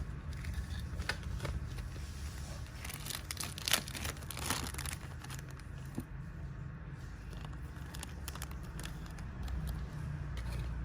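Small crinkling and scraping handling noises over a steady low hum, with a cluster of sharper scrapes about three to five seconds in.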